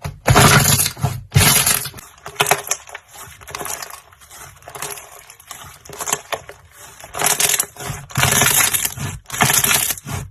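Slime being squeezed and worked by hand, giving crackly, crunching sounds in bursts; the bursts are loudest in the first second and a half and again over the last three seconds, with softer crackling in between.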